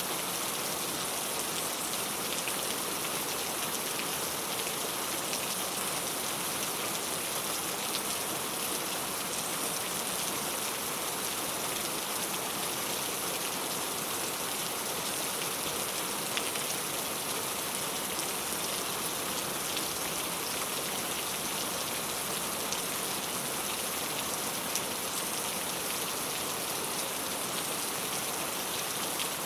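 Steady rain falling on a clay-tile roof: an even hiss of rain with scattered drop ticks.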